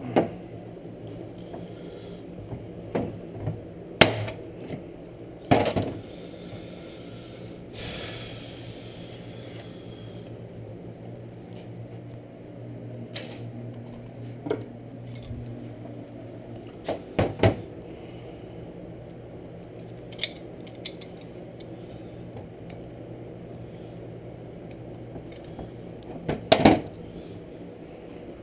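Small metal parts and hand tools being handled during work on a pull-start recoil starter: scattered sharp clicks and clanks, with a scraping rustle about eight seconds in, over a steady low hum.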